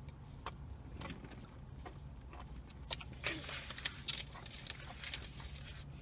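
Quiet eating sounds, with small clicks and scrapes of a spoon in a plastic ice-cream cup and a brief rustle a little past halfway, over a steady low hum.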